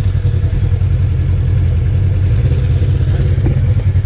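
Polaris RZR side-by-side engine running steadily at low speed, a deep even rumble with no revving.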